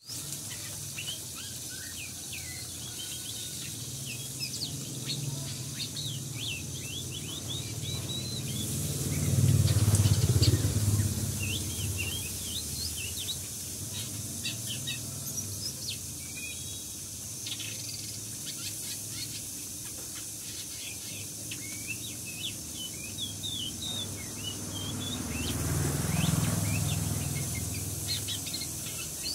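Small birds chirping and calling in many short, quick notes throughout. Under them a low rumble swells and fades twice, loudest about a third of the way in and again near the end.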